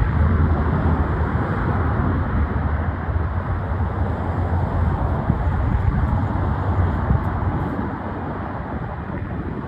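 Freight train passing: a steady, loud rumble of rolling stock, with a deep low hum that eases off about eight seconds in as the sound gradually fades.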